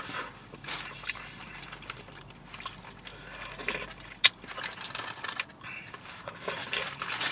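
A person chewing and eating seafood close to the microphone: irregular wet mouth noises and small clicks, with one sharper click about four seconds in.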